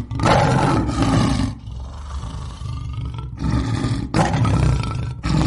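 Lion roaring: a series of deep, rough roars, loudest at first and again in the second half, with a quieter rumbling stretch in between.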